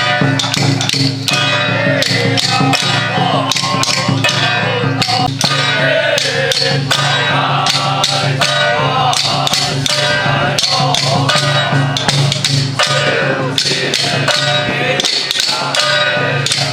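Loud ritual music with dense, irregular percussion strikes, wood-block-like knocks among them, over a steady low hum and a busy mix of pitched tones.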